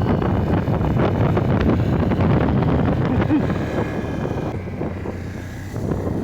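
Can-Am Outlander 850 XT ATV's V-twin engine running while riding, with wind buffeting the microphone.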